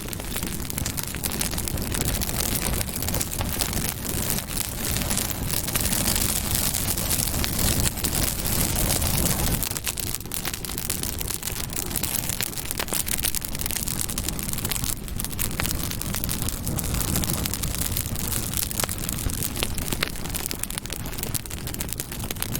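Campfire burning: wood crackling with frequent sharp pops over a steady hiss and low rumble.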